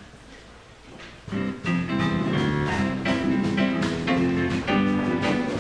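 Live rock-and-roll band music with guitar to the fore, coming in suddenly about a second in after a quiet moment and carrying on with a steady beat.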